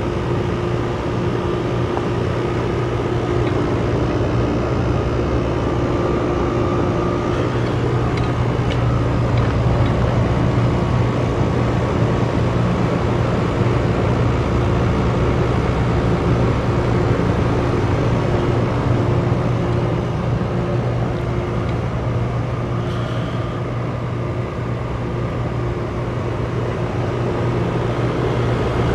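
Ruud Achiever RP14 heat pump outdoor unit running through a defrost cycle: a steady mechanical hum with a few held tones over it.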